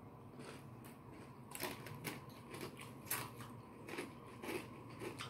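Crunchy biting and chewing of raw sweet bell peppers stuffed with cream cheese and crushed Takis: irregular crisp crunches and clicks.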